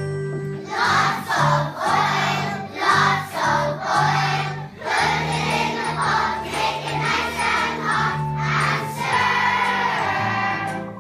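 A group of voices singing a song in chorus over an instrumental backing with a steady bass line.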